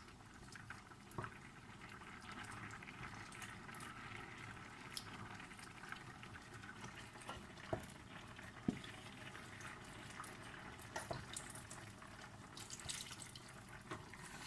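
Faint bubbling of a pot simmering on the stove, with scattered small pops and clicks.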